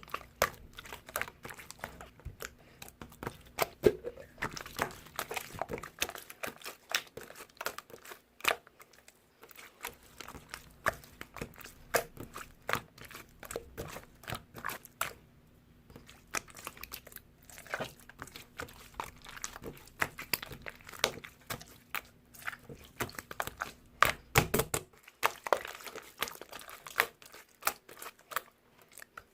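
Clear slime being pressed, stretched and poked by hand, giving irregular sticky clicks and small pops, with a few short quieter gaps and a loud cluster of pops near the end.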